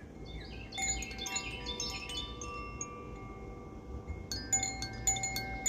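Koshi Fire-element wind chime: its clapper strikes the tuned rods in quick clusters, about a second in and again past four seconds, and several overlapping bell-like tones ring on between the strikes.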